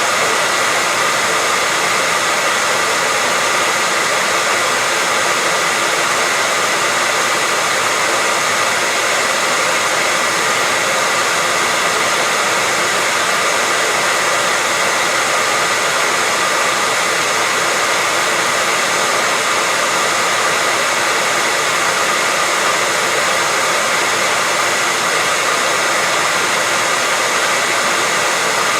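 Hair dryer running steadily on one setting: an even rush of blown air with a faint steady whine from its motor.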